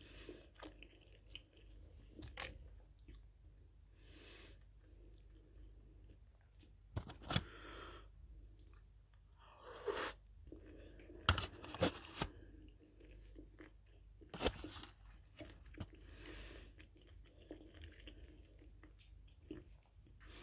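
Close-up chewing and mouth sounds of a person eating cooked shrimp, irregular and wet, with a few sharp clicks from handling the food and its packaging.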